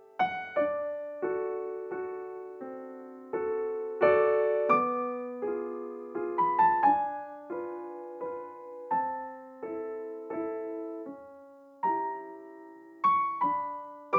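Background music: a gentle piano melody of single struck notes, each fading away.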